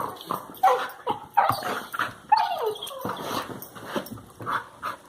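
Labrador retriever puppies making play noises: a run of short, uneven whines and grumbles, some sliding down in pitch.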